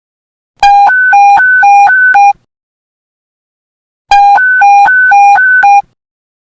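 Police radio panic-button alert tone: a loud electronic two-tone beep switching quickly between a low and a high pitch. It sounds in two bursts of under two seconds each, with silence between.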